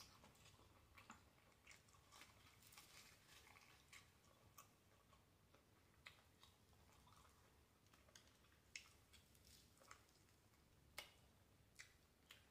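Faint close-up chewing and crunching of breaded fried chicken, with irregular sharp mouth clicks and smacks, a few louder ones in the second half.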